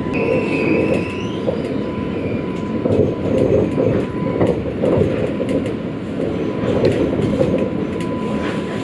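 Sydney light rail tram running, heard from inside the car: a steady rumble of wheels on rail with a faint steady whine. A short rising squeal comes in the first second or so, and there are scattered clicks.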